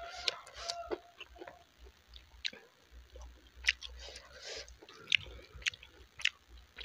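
Close-miked chewing of rice and curry, with many short wet mouth clicks and smacks, and fingers squishing into rice and curry.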